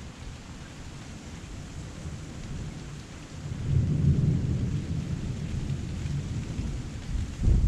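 Heavy rain falling steadily, with a roll of thunder that builds about three and a half seconds in and rumbles on, and a sharp low clap of thunder near the end.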